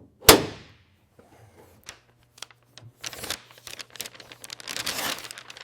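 A single sharp knock about a third of a second in, then scattered clicks and, from about halfway, a run of crinkling, tearing noise.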